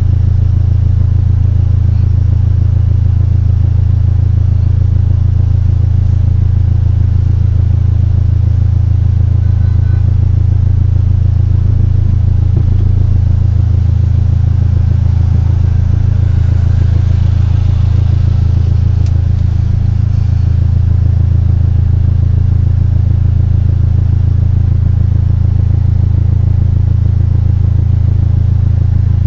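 Car engine running steadily with a loud, constant low hum from the engine bay, a noise the owner likens to pigeons cooing under the hood.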